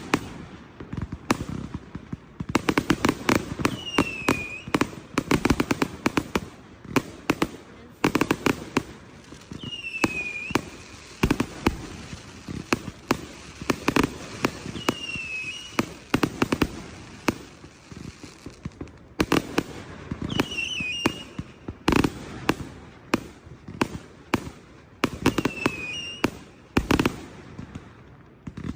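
Consumer fireworks going off in rapid, dense succession: sharp bangs and crackling reports with deeper booms among them. About every five seconds a short, falling high-pitched tone sounds.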